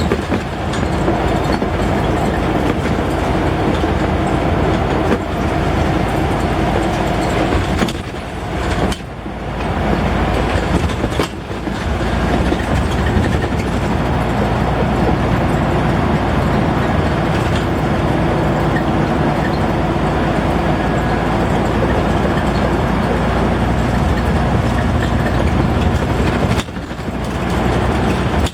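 Scania N94UD double-decker bus's engine running under way, heard from on board: a steady low rumble with a droning whine, briefly dropping off a few times (about a third of the way in and near the end) before pulling again.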